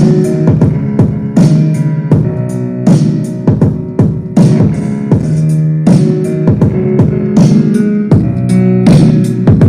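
Music with a strong, steady beat of about two hits a second, played loud through a homemade 4440 IC amplifier fitted with a Jhankar beat board, giving heavy bass.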